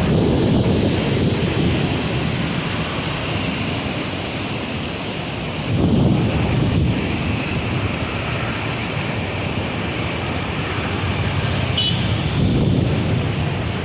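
Water rushing out through the gates of a river barrage, a steady loud rush of noise, with wind buffeting the microphone in gusts.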